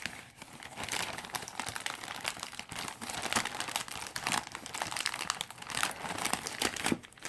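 Shipping package being torn open by hand, with continuous crinkling and crackling and some tearing of the wrapping.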